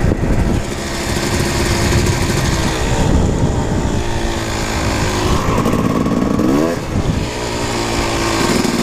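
Kawasaki KX250 two-stroke dirt bike engine running while ridden, its pitch shifting with the throttle, with a quick rise and drop in revs about two-thirds of the way through.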